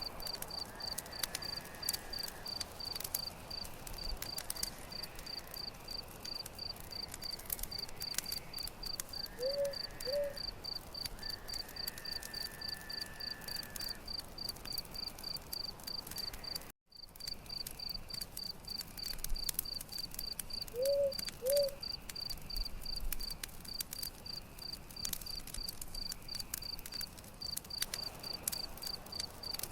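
Campfire crackling with scattered sharp pops, over a cricket chirping in a steady, even pulse of about three chirps a second. Just past midway the sound cuts out for a split second.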